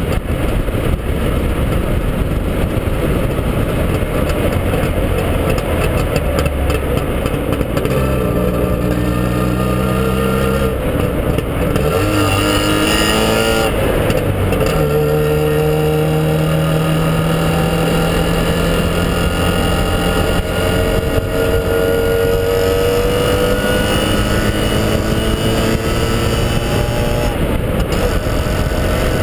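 Trabant 601's air-cooled two-cylinder two-stroke engine running as the car drives on the road, with steady wind and tyre noise. The engine pitch holds fairly level at first, shifts around the middle, then climbs steadily through the second half as the car accelerates.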